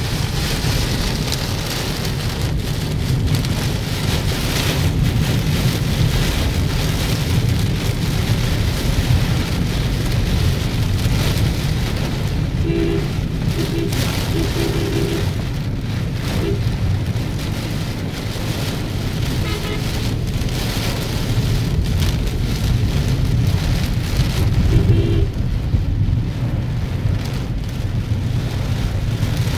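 Heavy rain hitting the roof and windshield of a moving car, heard from inside the cabin over a steady low road rumble. A few short tonal beeps stand out around the middle and again near the end.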